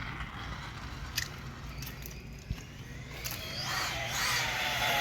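A motor's whine and rushing noise swelling over the second half, its pitch slowly falling, after a few faint clicks.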